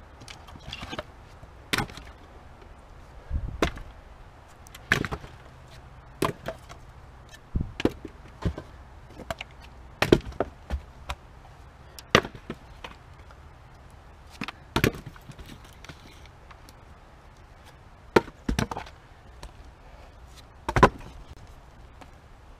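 An axe splitting fir firewood rounds by hand: about a dozen sharp strikes on the wood at an uneven pace, one every one to three seconds.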